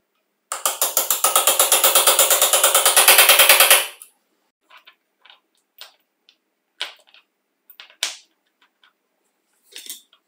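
A loud, rapid mechanical rattle pulsing about ten times a second for about three seconds, then cutting off, followed by a few light clicks and taps.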